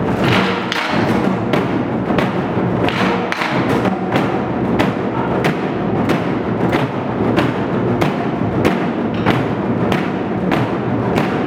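Ensemble of Korean moduembuk barrel drums played together in a fast, dense rhythm, with sharp accented strokes about twice a second.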